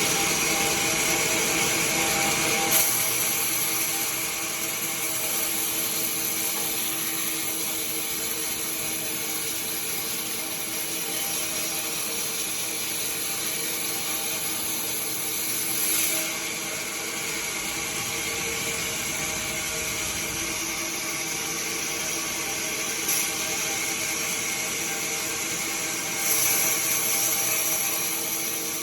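Sawmill machinery running steadily, a hum of several steady tones under a high whine. The whine grows louder briefly a few times, near three seconds in, around the middle and near the end.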